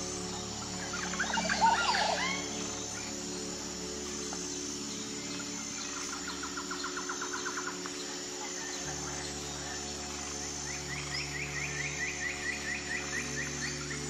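Birds calling over a steady background: a loud burst of chattering calls about two seconds in, then a rapid trill around six seconds in, and a longer, faster trill of repeated notes from about eleven seconds in. A faint high pulsing like an insect repeats throughout.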